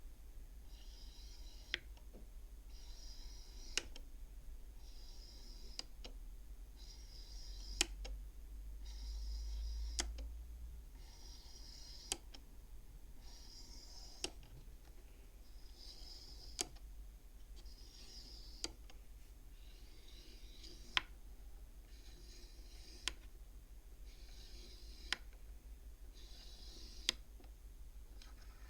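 Beads on a wooden bead counting frame slid along their rods one at a time: each slide is a short rasp ending in a sharp click as the bead strikes the others, about every two seconds.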